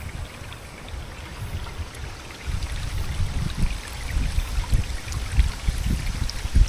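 Runoff water flowing in a steady stream, with wind buffeting the microphone in low rumbling gusts that grow stronger from about two and a half seconds in.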